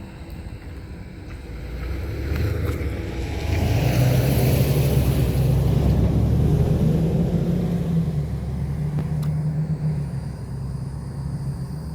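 A hi-rail pickup truck passing close by: its engine grows louder, holds at a steady low pitch for a few seconds, then fades as it moves away, with a couple of faint clicks along the way.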